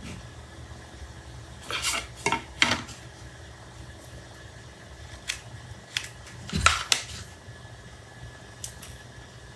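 Scattered light metallic clinks and knocks of tools and parts being handled on a workbench, about seven in all, loudest around two and seven seconds in, over a low room hum.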